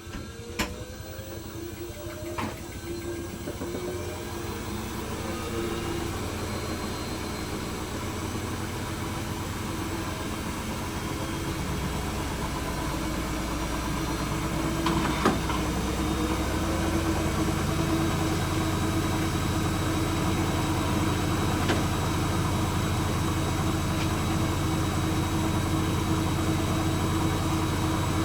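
Hoover H-Wash 300 Plus front-loading washing machine ramping up into a spin: the motor and drum hum rises in pitch and grows steadily louder, with a few sharp knocks, the loudest about fifteen seconds in.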